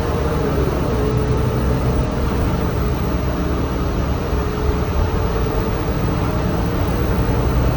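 City bus running, heard from inside the cabin: a steady low engine and road rumble with a faint whine that drifts up and down in pitch.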